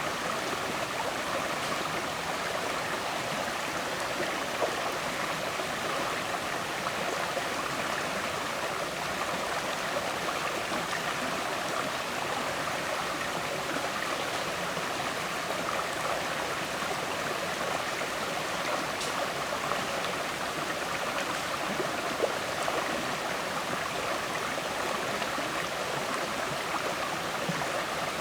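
River water flowing steadily, a constant rushing and gurgling with small splashes here and there.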